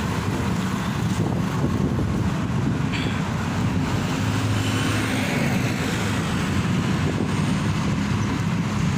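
Steady road noise from a moving vehicle in traffic: a continuous low engine and tyre hum with no single event standing out.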